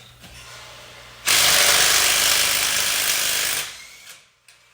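A hand-held power tool runs in one loud burst of about two and a half seconds, starting about a second in and cutting off near the end.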